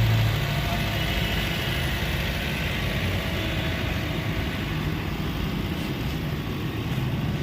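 A vehicle engine running steadily at idle, with a low hum over a noisy background.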